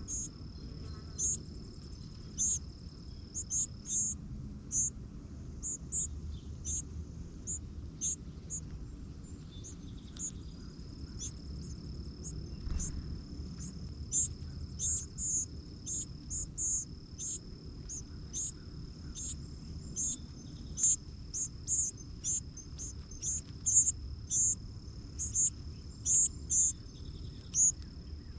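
Short, very high chirps repeating irregularly, about one or two a second, over a continuous high insect trill typical of crickets. The trill drops out for several seconds, then resumes.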